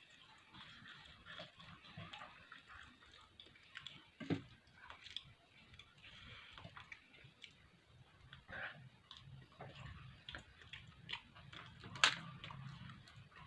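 A person chewing food close to the microphone: a run of small wet mouth clicks and smacks, with two sharper, louder clicks about four seconds in and near the end.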